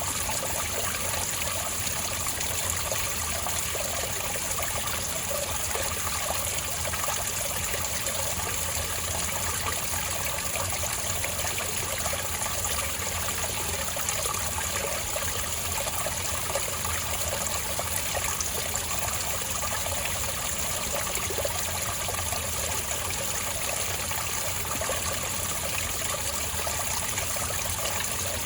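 Spring water trickling and burbling over rocks in a steady, unbroken flow.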